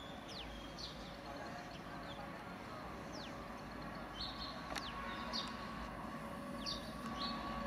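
Birds give short, falling chirps again and again over a low rumble that slowly grows louder. Faint steady tones set in about halfway through as a train approaches the station.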